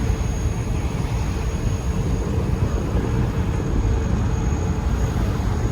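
Steady low rumble aboard a ferry under way: the engine drone mixed with the rush of water along the hull and wind on the microphone.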